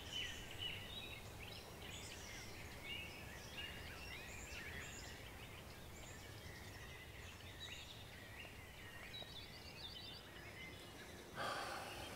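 Small birds chirping and singing on and off, with a quick trill about three-quarters of the way through, over a faint low background rumble. A brief rustle comes in near the end.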